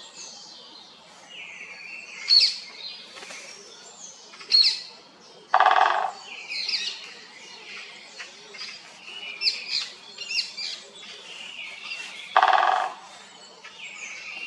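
Wild birds singing: many short, high whistled chirps and trills from several birds. Twice, about a third of the way in and again near the end, a louder, harsher call of about half a second cuts through.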